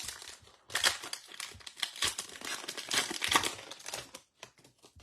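A foil baseball card pack wrapper crinkling as it is torn open by hand, a dense stretch of crackling that thins to a few last crinkles near the end.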